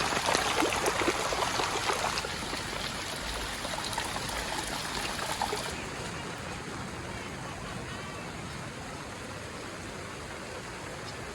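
Rushing floodwater: a steady wash of flowing water, louder for the first two seconds or so, then steadier and a little quieter.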